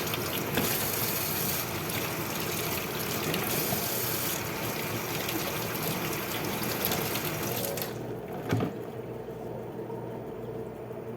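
Kitchen tap water running and splashing, with small clicks and knocks; the flow stops about eight seconds in, followed by a single sharp knock.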